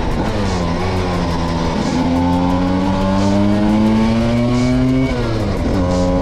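Vespa V50 scooter's small two-stroke engine running under load while riding. The revs dip near the start, climb steadily for a few seconds, drop sharply about five seconds in, then start climbing again.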